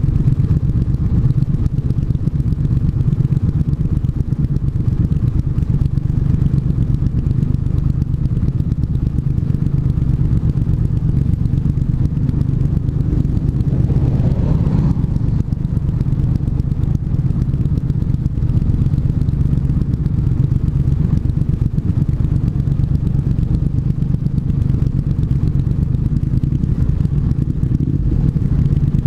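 Triumph 1200 cc parallel-twin motorcycle engine running steadily while the bike is ridden, with a short rise and fall in pitch about halfway through.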